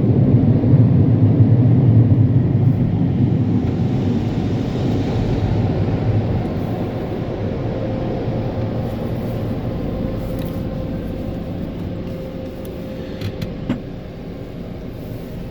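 Car-wash air dryers (Belanger Sidekick side blowers and Air Cannon top blowers) blasting air over the car: a steady rush of air, heard muffled from inside the car, slowly fading.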